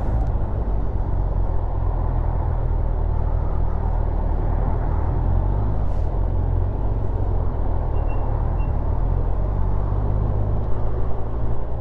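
Kawasaki motorcycle engine running at a steady cruising speed, with steady wind and road rush over the helmet-mounted microphone.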